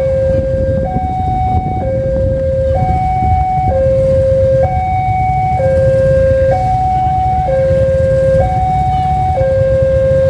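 Two-tone hi-lo warning siren alternating between a lower and a higher tone, each held about a second, over a steady low rumble.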